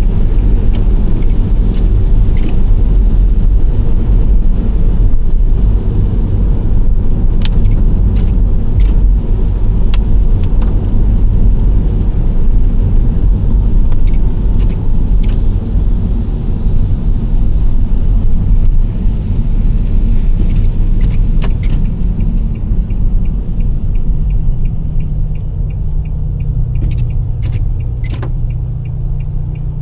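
Nissan Serena C25 minivan driving, with steady road and engine noise and scattered sharp clicks and knocks. About two-thirds of the way through, a turn-signal relay starts ticking about twice a second. At the same time the noise eases and a low, steady engine hum comes forward as the van slows.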